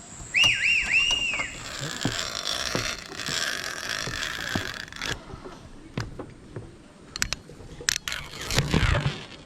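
A zip line trolley running along its steel cable, a few seconds of rushing whir, followed by scattered clicks and knocks of the hardware. Three short rising-and-falling whistled notes sound near the start.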